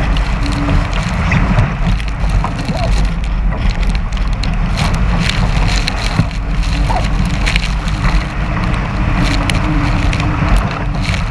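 Strong wind buffeting the microphone in a steady low rumble, with water rushing and splashing against a 420 sailing dinghy's hull under way.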